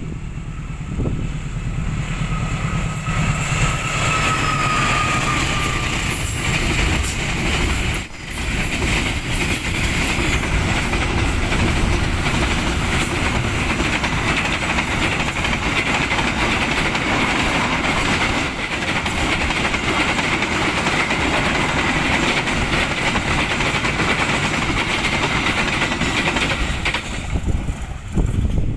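A train passing close by: loud, steady noise of wheels running on the rails, with a brief drop about eight seconds in.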